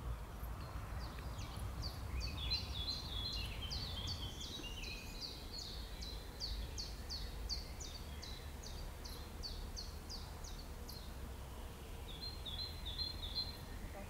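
A songbird singing a long run of quick, evenly repeated descending notes, about three a second, for some ten seconds, then a shorter run of notes near the end, over a low steady rumble.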